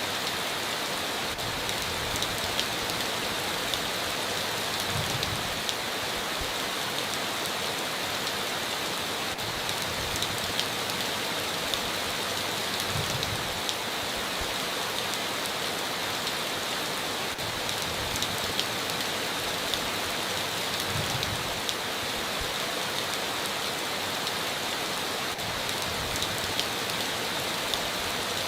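Heavy rain falling steadily, a dense even hiss of drops with scattered sharper drop hits and a few soft low thumps.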